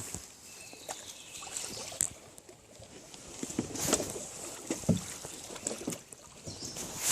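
Irregular light knocks, clicks and rustles of things being handled, with a louder swishing stretch about four seconds in.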